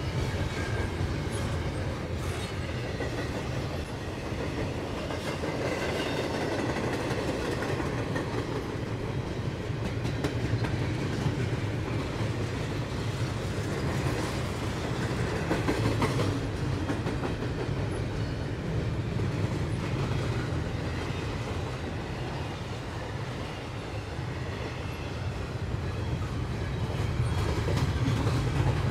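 Double-stack intermodal freight train of container well cars rolling past: a steady rumble with the clickety-clack of wheels over rail joints. There is a faint, wavering high squeal of wheels in the first several seconds.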